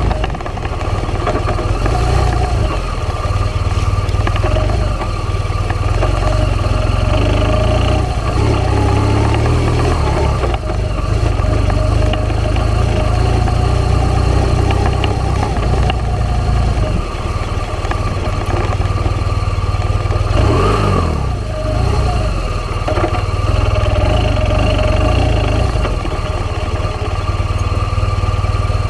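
A small motor vehicle's engine running at a steady riding pace over a bumpy dirt track, with heavy wind rumble on the microphone. About twenty seconds in, the engine note briefly rises and falls.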